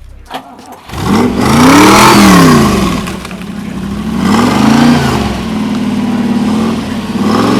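Car engine being revved: the pitch climbs and falls in long blips, about three times, holding a raised idle between the second and third.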